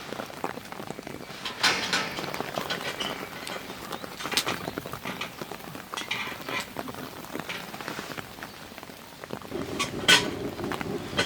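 Irregular light clinks and knocks of small objects being handled, like utensils or camp cookware, with the loudest knock about ten seconds in.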